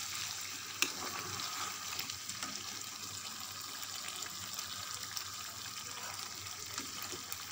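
Chicken curry masala sizzling in an open frying pan over the gas flame, a steady hiss, with one sharp click a little under a second in.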